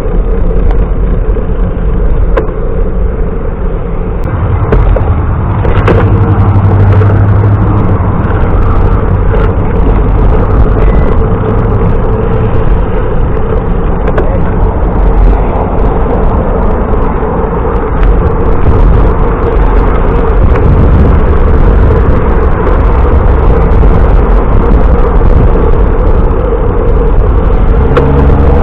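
Loud, steady rush and rumble of wind over the microphone of a camera riding along on a moving bicycle, with a faint steady hum and a few small clicks.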